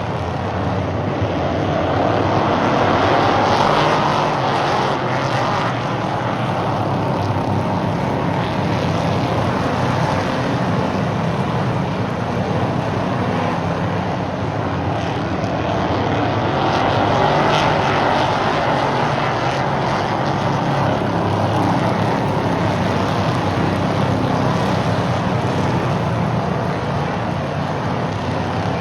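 Stock cars racing around a short oval track, their engines running hard in a continuous drone that swells twice as the pack comes past, a few seconds in and again past the middle.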